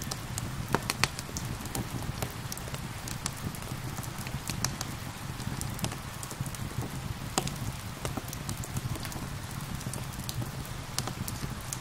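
Wood fire crackling with frequent irregular sharp pops over the steady hiss of gentle rain, with a low steady rumble underneath.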